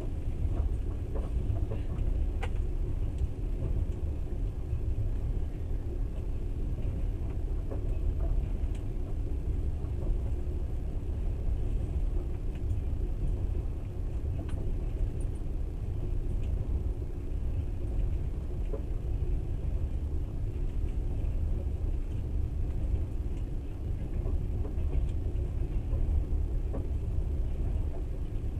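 Steady low rumble of a passenger train running along the track, heard from inside the carriage, with a few faint scattered clicks.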